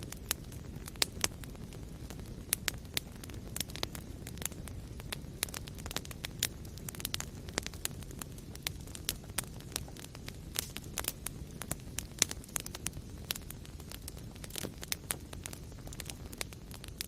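Wood fire burning in a fireplace: sharp, irregular crackles and pops over a steady low rumble of flame.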